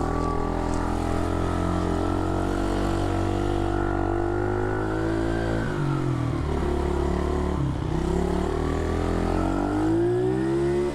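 SSR 110cc pit bike's single-cylinder four-stroke engine running just after being kick-started. The revs hold steady, drop twice around six and eight seconds in, and climb again near the end.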